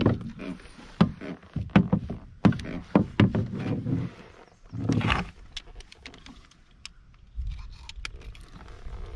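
A quick run of sharp knocks and thumps against a plastic kayak hull while a small catfish is handled aboard, then a brief scraping rustle about five seconds in and a low rumbling noise near the end.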